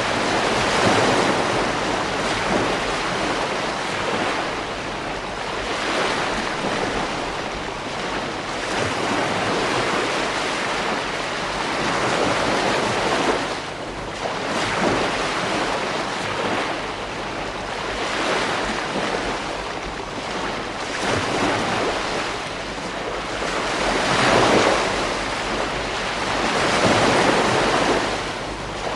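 Ocean waves breaking and washing on a beach: a continuous surf rush that swells and eases every few seconds, with some waves louder than others.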